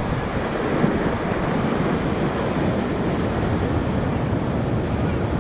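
Ocoee River whitewater rushing steadily around a raft, an even hiss of moving water with no breaks.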